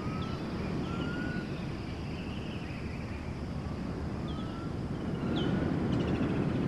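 Outdoor nature ambience: a steady low wind rumble with a few short, thin bird chirps scattered through it.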